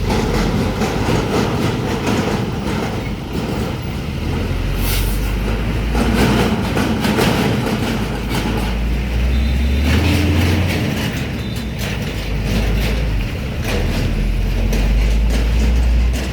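Heavy vehicles rumbling across a railway level crossing: a loud, steady low rumble with many sharp clacks over the rails.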